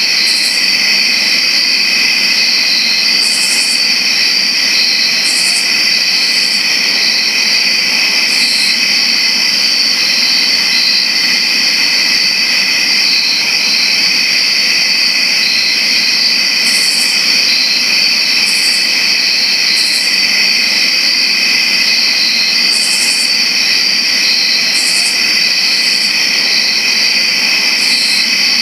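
Dense chorus of many crickets chirping: a continuous, even trilling at several overlapping high pitches, with short, higher-pitched chirps breaking in every few seconds.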